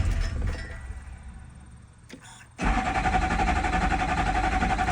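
2005 Duramax LLY 6.6 L V8 turbodiesel cranking over on the starter and running down within about two seconds, then, after a short click, cranking again suddenly about two and a half seconds in. It is a no-start on which the engine fires and dies right away, which the owner suspects is the VATS/Passlock anti-theft system cutting it out.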